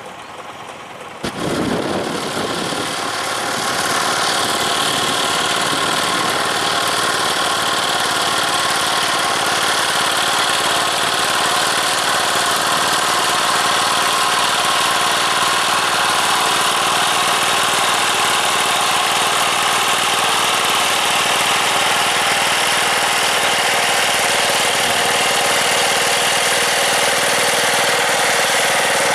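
Diesel tractor engine coming in suddenly about a second in, building over the next few seconds, then running steadily.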